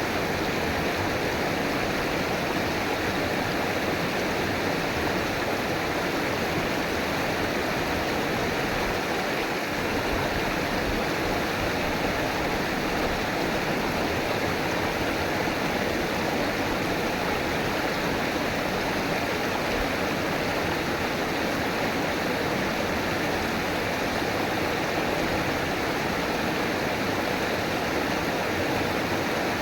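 River water flowing and rushing steadily over rocks, a continuous even wash of water noise.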